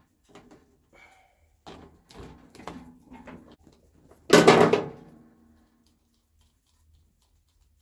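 Small metal clicks and knocks of hand work, then one loud metallic clang about four seconds in that rings briefly as it fades, as the bolts and battery of a small mower or tractor are taken out.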